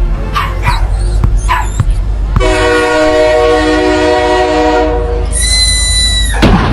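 A dog barking several times over a low rumble. About two and a half seconds in, a long steady horn blast with several tones sounding together takes over, followed by a high steady beep and a sudden noisy burst near the end.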